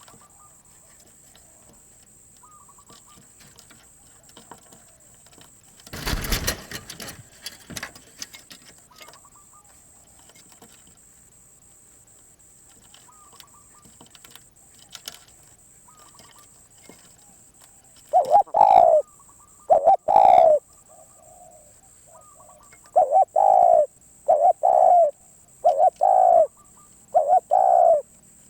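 Spotted dove cooing: after a quiet stretch, a run of about six loud, evenly spaced coos starts about two-thirds of the way in. A short rustling noise comes about six seconds in.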